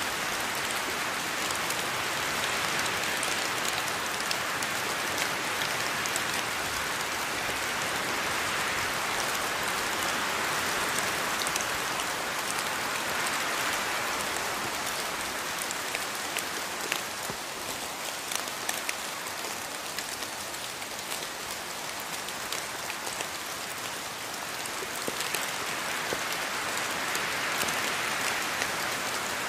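Steady rainfall in a rainforest: an even hiss of rain that swells and eases slowly, with scattered individual drops ticking on leaves and surfaces.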